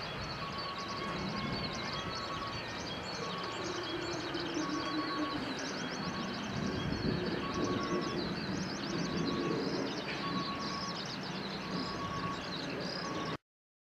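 Container freight train rolling away along the track, its wagons rumbling and clattering on the rails, with a short electronic beep repeating steadily over it. The sound cuts off suddenly near the end.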